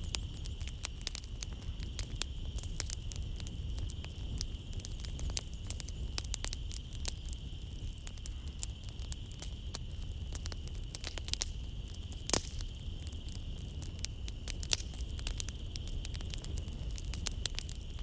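Wood fire crackling in a fireplace: frequent sharp pops and snaps over a low steady rumble of the flames, with one louder pop about twelve seconds in. A steady high drone of night insects runs behind it.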